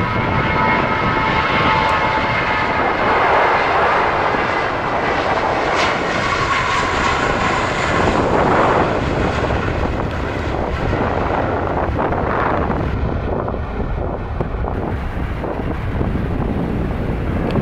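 Jet airliner engines, a loud steady rush with a high whine in the first few seconds.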